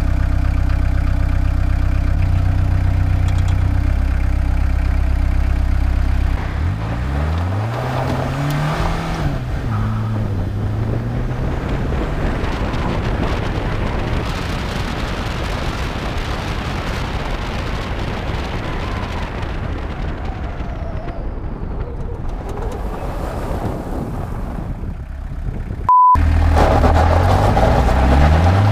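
Peugeot 306 turbodiesel engine, heard from a camera mounted outside the car. It runs steadily, then pulls away about seven seconds in with a rising engine note, then drives on with wind and road noise over the engine. Near the end there is a brief beep and a cut, and the engine runs steadily again.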